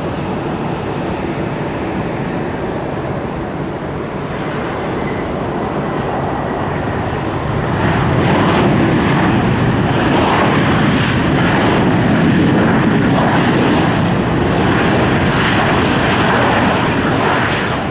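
Jet airliner engine noise, a steady rumble that grows much louder about eight seconds in and stays loud.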